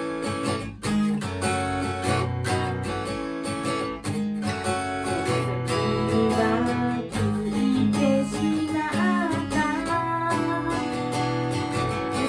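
Guitar strummed and picked as a continuous song accompaniment.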